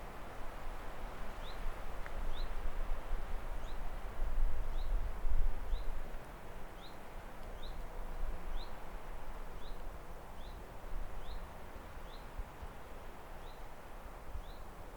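A small bird repeating a short high chirp, roughly one to two a second, over a steady outdoor noise haze with a low rumble that swells around the middle.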